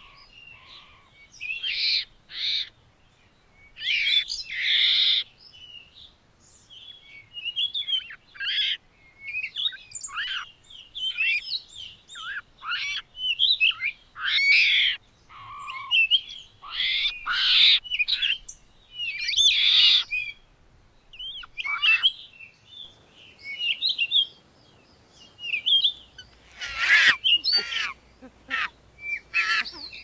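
Small birds chirping and calling over and over, many short quick twittering calls with brief gaps between them. Near the end a faint low hum comes in underneath.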